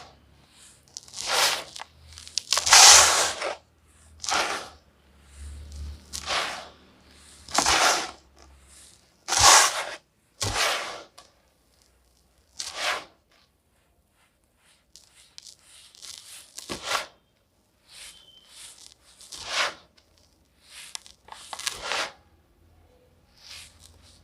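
Dry, grainy yellow clay crunching and crumbling in a run of separate bursts, each under a second long, with a pause of about two seconds past the middle.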